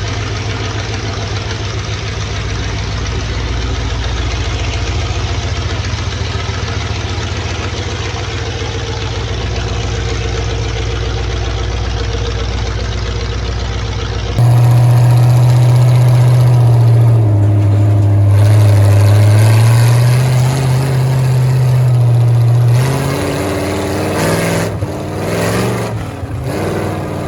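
Vehicle engine sounds in two parts: about fourteen seconds of steady running noise, then, after an abrupt change, a louder engine whose low pitch dips and rises again as it is revved. The sound becomes more uneven over the last few seconds.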